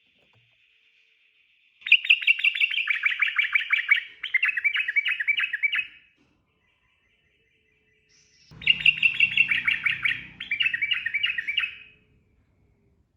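Sooty-headed bulbul singing: two bursts of rapid, repeated chattering notes, each about four seconds long and split into two quick phrases, a couple of seconds apart. A faint low rumble runs under the second burst.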